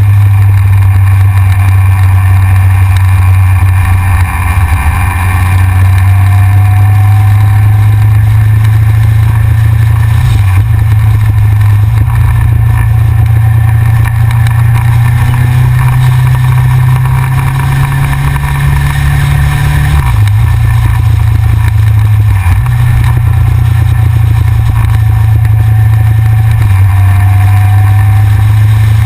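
Yamaha XJR motorcycle's air-cooled inline-four running at road speed, heard through a GoPro mounted on the front of the bike as a loud, steady low drone. The drone shifts in level a few times, with faint rising engine tones over it.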